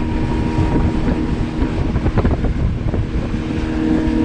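Motorboat running underway at steady speed, its engine a constant hum that grows a little stronger near the end, with wind buffeting the microphone and water rushing past the hull.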